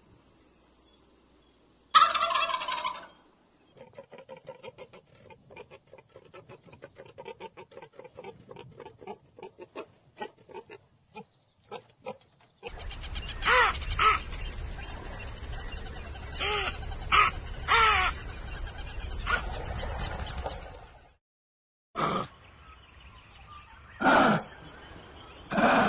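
Domestic fowl calling: a loud call about two seconds in, then a fast rattling run of quieter calls, then several loud calls over steady background noise, with more single calls near the end.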